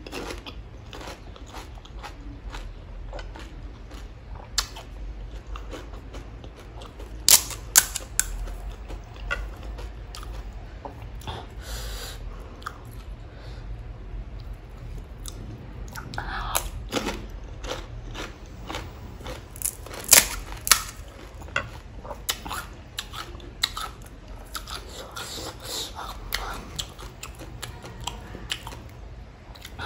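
A person chewing pani puri close to the microphone, the crisp fried puri shells crunching in the mouth over and over, with a few sharper, louder crunches.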